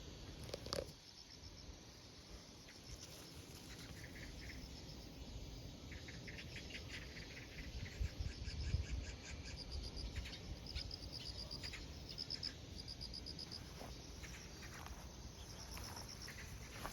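Insects chirping in short, repeated pulsed trills, with a few low thuds about halfway through.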